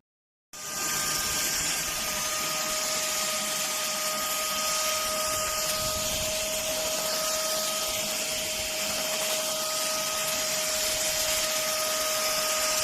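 ST6101 PRO cordless handheld vacuum cleaner motor starting suddenly about half a second in and running steadily with a constant high whine over its airflow noise.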